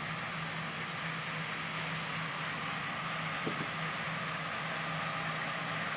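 John Deere S670 combine harvesters running steadily while cutting soybeans: an even machinery drone with a low engine hum and a hiss of threshing and fans.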